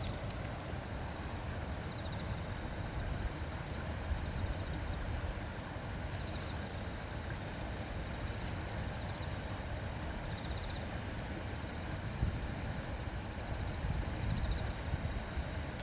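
River stream babbling steadily over rocks, an even rush of water with a low rumble underneath.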